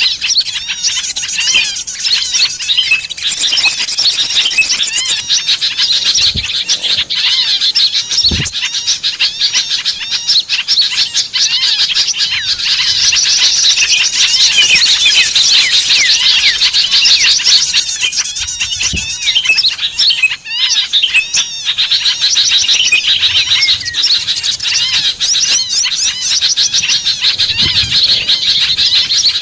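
Many small songbirds chirping and twittering together in a dense, continuous chorus of high calls, with a few soft low thumps.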